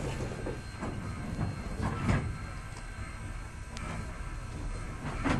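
Railroad train rolling slowly, with irregular metallic clanks and knocks over a low rumble.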